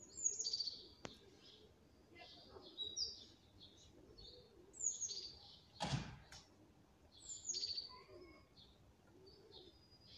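Small songbird chirping: about five quick calls, each sliding down in pitch, spaced a couple of seconds apart. One thump about six seconds in.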